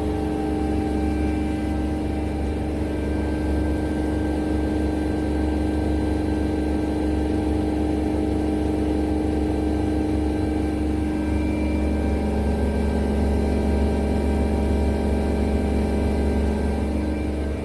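Steady mechanical hum with several constant tones over a low drone, like a motor running; the tones shift slightly about twelve seconds in.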